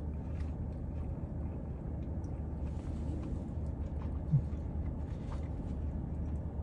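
Faint chewing of a burger over a steady low hum in a car's cabin, with one short low thump about four seconds in.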